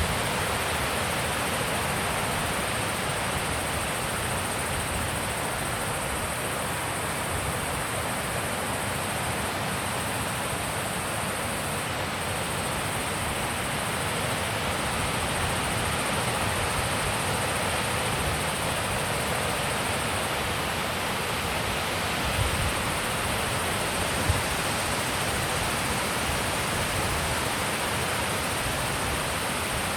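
Wind blowing steadily, an even rushing hiss, with low rumbles where gusts buffet the microphone, two of them sharper a little past twenty seconds in.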